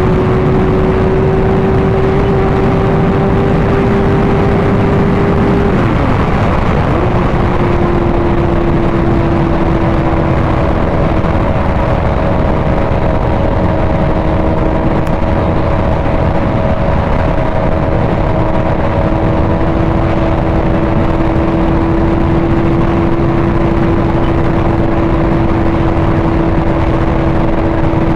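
Sport motorcycle engine running at steady highway speed under a dense rush of wind and road noise. About six seconds in the engine note drops sharply and picks up again a little lower a second later, a gear change, then holds steady.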